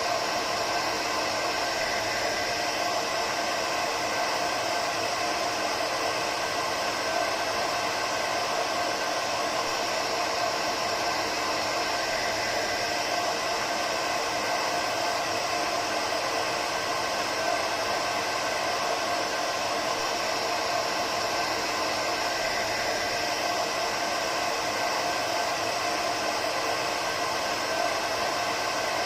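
Hair dryer running steadily: an even airy rush with a faint steady whine from the motor and fan.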